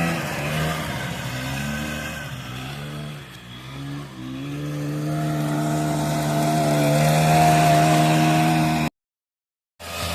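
Car engine revving: its pitch falls and rises unevenly, then climbs steadily and holds high before cutting off abruptly.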